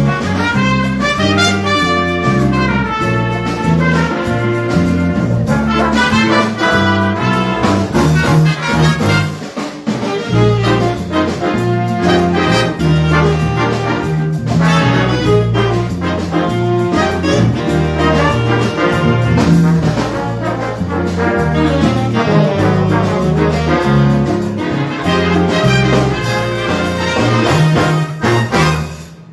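A high school jazz big band with a full brass section of trumpets and trombones playing an up-tempo tune over a moving bass line. The band cuts off on a final note just before the end.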